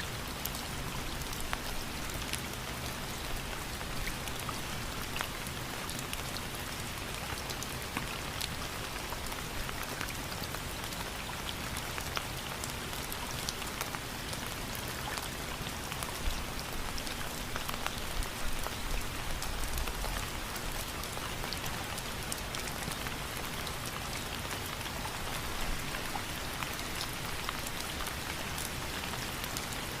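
Steady rain falling on a surface, a dense even hiss of many drops with fine individual drop taps throughout.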